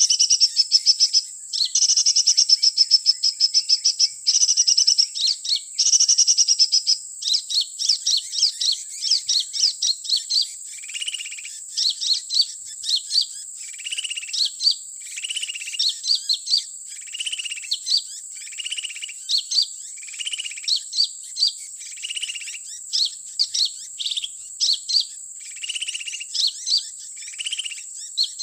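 Sunbird calls: dense runs of high chirps for the first few seconds, then short high chirps alternating with lower whistled notes about once a second, over a steady high whine.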